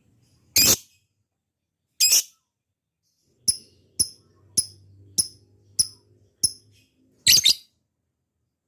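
Lovebird calling: two loud harsh shrieks, then a run of seven short sharp chirps about two a second, then a loud double shriek near the end.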